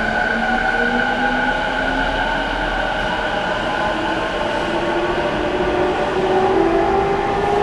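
Tokyo Waterfront Area Rapid Transit 70-000 series train, its VVVF-IGBT inverter and traction motors whining as it accelerates. Several tones rise slowly in pitch over a steady rail rumble.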